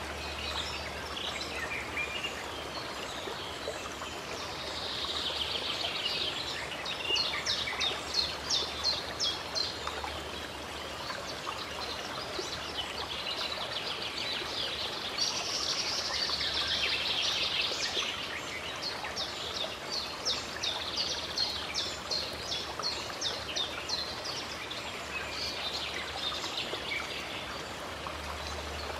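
Stream running steadily, with a bird singing over it: twice a swooping phrase followed by a run of rapid, repeated high notes several times a second.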